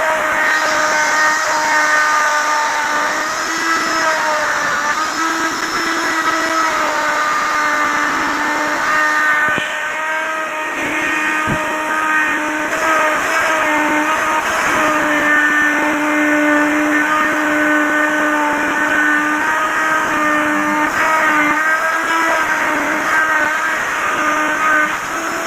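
Electric wood router running at high speed with a steady whine, its pitch dipping and recovering slightly as the bit cuts into the wood.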